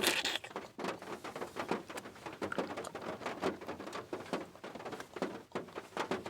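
Rain pattering on a surface: many irregular light taps.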